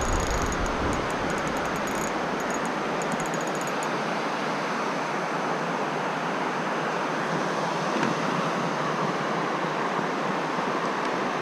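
Steady rush of stream water. A fine, fast ticking is heard over it for the first few seconds.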